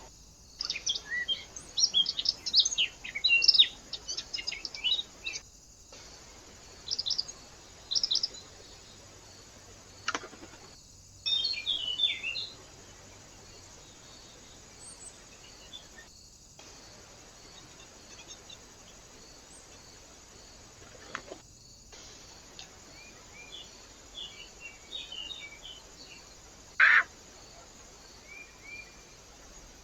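Small birds chirping and calling, with quick high chirps in clusters, over a steady faint hiss from the trail camera's microphone. The sound drops out briefly every five or six seconds where short recordings are joined.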